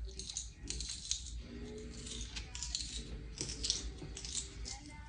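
African grey parrot crunching a snap pea pod in its beak: a run of short, crisp crackles and clicks, coming in irregular clusters.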